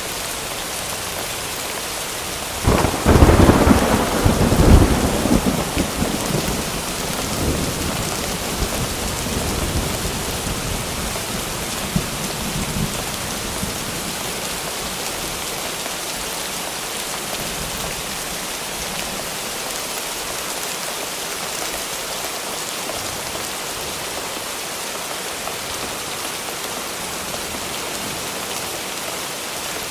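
Steady rain with a thunderclap about three seconds in: a sharp crack followed by rolling rumbles that fade over about ten seconds while the rain continues.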